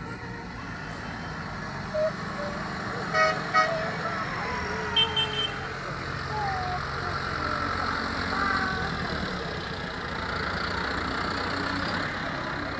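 Tractor engines run in a steady low drone as the parade passes, with short horn toots twice about three seconds in and twice more about five seconds in, over crowd voices.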